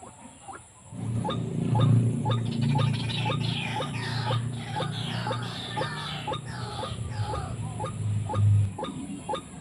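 White-breasted waterhen (ruak-ruak) calls in a fast repeated series, about three harsh notes a second with falling squeals over them. A low hum comes in about a second in and stops near the end.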